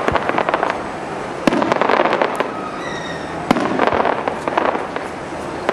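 Aerial fireworks display: shells bursting about every two seconds, each sharp bang followed by a dense crackle of many small pops. A brief high whistle sounds about three seconds in.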